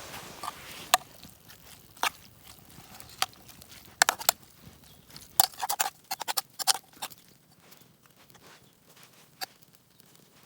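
Campfire cooking sounds: irregular sharp clicks and light knocks, bunched about halfway through, a few with a brief ring.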